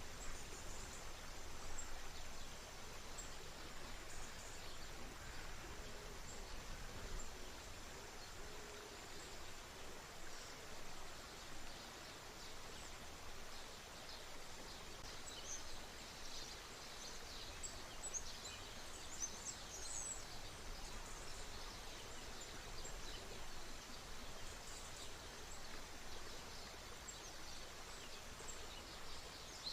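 River water flowing in a steady rush, with small birds chirping in quick high notes that come thickest about halfway through.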